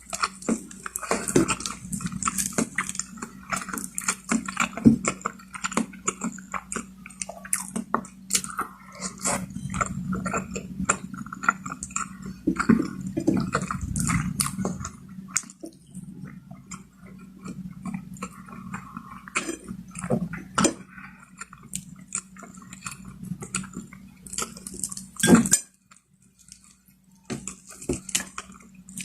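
Close-miked chewing and biting of roast chicken, with wet mouth sounds, irregular crackly clicks and occasional clinks of cutlery on a plate, over a steady low hum. The sound drops out almost entirely for a moment near the end.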